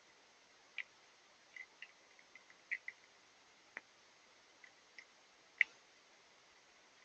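Faint, irregular ticks of falling rain and wet snow, about a dozen single drops at uneven intervals over a steady low hiss; the sharpest tick comes a little over halfway through.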